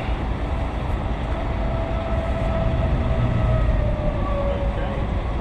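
Heavy diesel truck engine running with a steady low rumble, with a whine that swells about a second in and slowly slides lower and fades near the end.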